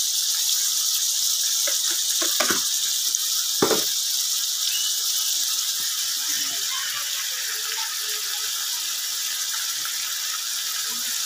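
Chicken, onion and tomato sizzling steadily in hot ghee in a pan, with a few short knocks in the first four seconds.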